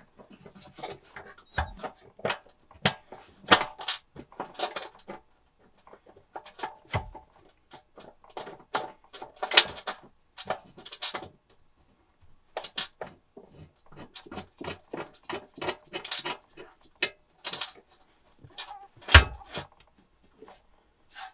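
Irregular sharp metallic clicks and knocks of a bolt, washer and hand tools being handled while a bolt is fitted into a steel under-seat storage box, with a few heavier thumps, the loudest near the end.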